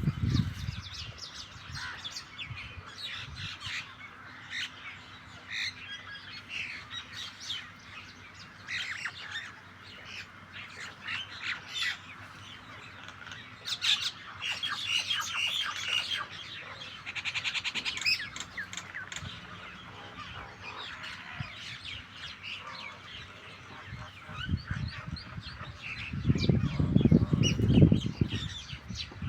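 A mixed flock of starlings and mynas calling over one another with many harsh squawks, chirps and short whistles. A low rumble sounds briefly at the start and again, louder, near the end.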